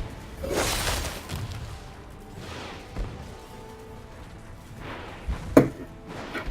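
Music from a played-back anime soundtrack, with a whoosh about half a second in and a sharp hit about five and a half seconds in.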